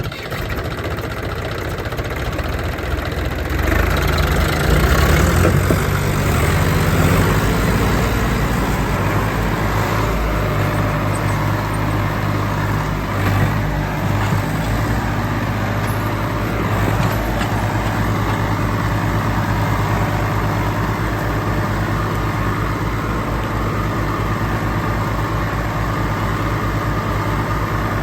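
Tractor's diesel engine running loud under load, building up about four seconds in and then holding steady with a regular low throbbing beat.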